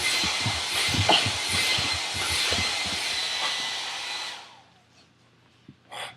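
Hair dryer blowing with a steady whine, switched off about four seconds in, with irregular low thumps underneath. A few short, sharp noises come near the end.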